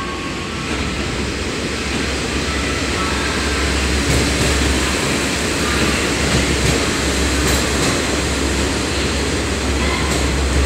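JR West 115-series electric train running into a station platform: a steady rumble of wheels on rail, with a few sharp clicks from about four seconds in.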